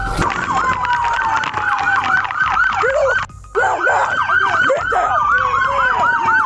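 Police sirens: one on a fast yelp, rising and falling about four times a second, and another on a slow wail gliding downward. The sound drops out briefly a little after three seconds.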